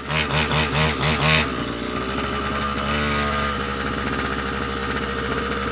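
Small dirt bike engine running, surging in quick pulses about five times in the first second and a half, then settling into a steady drone.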